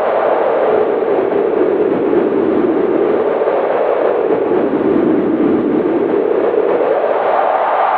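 Cold winter wind howling steadily, its hollow pitch sinking slowly through the middle and rising again near the end.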